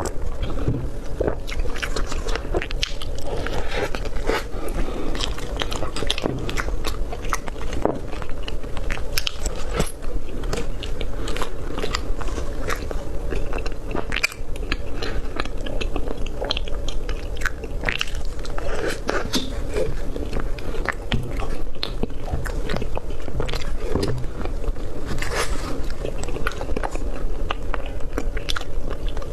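Close-miked eating of cream roll cake: biting and chewing, with many wet mouth clicks and smacks, irregular and continuous.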